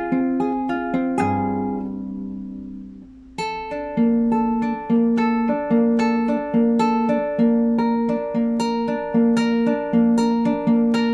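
Classical guitar played solo in an improvisation. A run of plucked notes leads to a chord about a second in, which is left to ring and die away; from about three seconds in an even picked pattern sets in over a repeated bass note.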